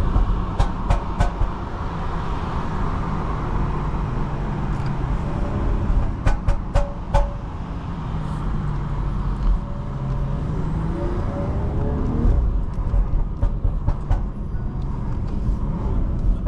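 Cabin sound of a BMW 540i on the move in the rain: a steady engine and road rumble. Its turbocharged inline-six, fitted with downpipes, revs up in a rising pitch about ten seconds in. Scattered groups of sharp clicks come through the drone.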